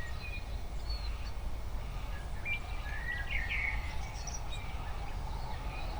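Wild birds chirping and calling in short, scattered notes, some sliding in pitch, over a steady low rumble.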